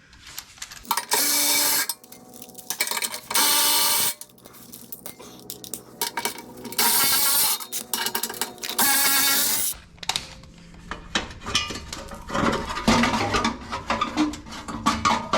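A ratchet wrench spinning bolts out of a heat shield under the vehicle in four bursts of about a second each, followed by scattered clicks and taps of metal.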